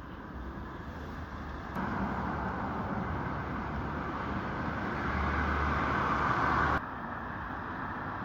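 Road traffic noise: a steady rush of passing vehicles that builds up. It jumps abruptly louder about two seconds in and drops off suddenly near the end.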